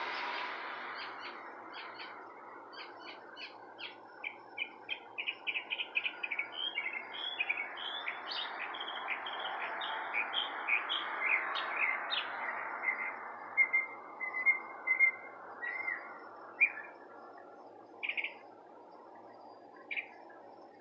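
Songbirds chirping: a fast run of short, high chirps that thickens into a busy chatter, then thins to a brief trill and a few single calls. A soft rushing background fades gradually beneath them.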